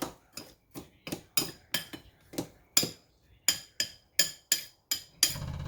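Spoon clinking rhythmically against the side of a bowl, about three strikes a second, while stirring dried scrambled-egg mix with boiling water to rehydrate it. A low steady hum starts near the end.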